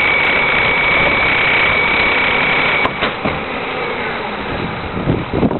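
Heil 5000 rear-loader garbage truck running, with a steady high whine over the engine noise that cuts off suddenly about three seconds in; the truck keeps running a little quieter afterwards.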